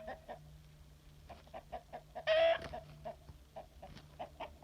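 Chickens clucking in a run of short notes, with one louder, drawn-out squawking call a little past halfway.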